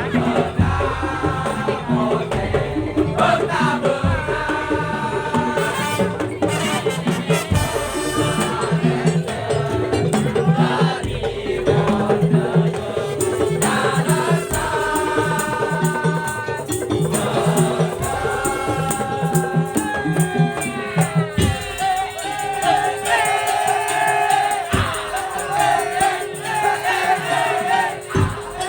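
Madurese tong-tong (daul) ensemble playing: a busy, steady percussion beat with a melody line over it.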